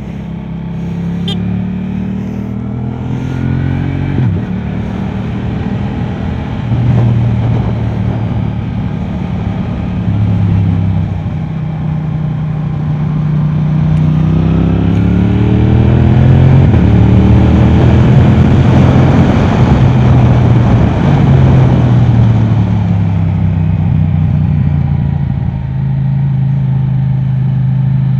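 Yamaha R7's 689 cc parallel-twin engine through an Akrapovic exhaust, revving up through the gears with the pitch climbing and dropping back at each upshift. It is loudest about two-thirds of the way in, then the note falls away as the bike slows.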